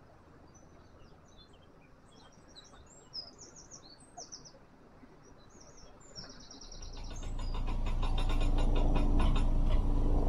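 Small birds chirping over quiet surroundings. About seven seconds in, a narrowboat's engine comes up and grows loud, running with an even, fast knock.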